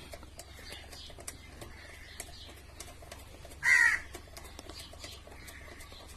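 A crow caws once, short and loud, a little past halfway, over faint scattered clicks.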